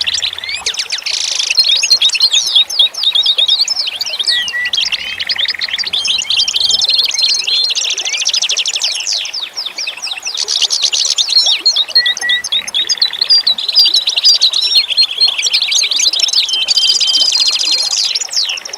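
A dense chorus of many small songbirds chirping and trilling at once, with rapid overlapping calls and a few short buzzy trills.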